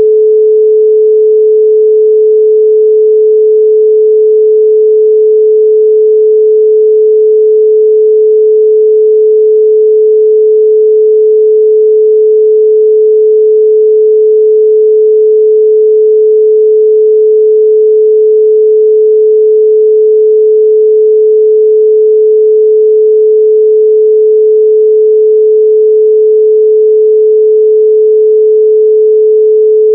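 A loud, unchanging pure sine tone at 432 Hz: a single pitch with no overtones.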